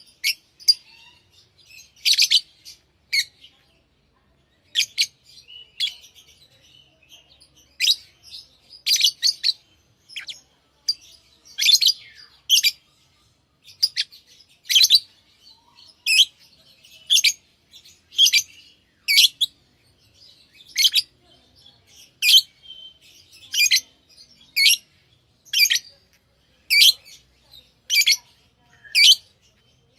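Pet lovebirds chirping: short, high-pitched calls repeated about once a second, falling into a steadier rhythm in the second half.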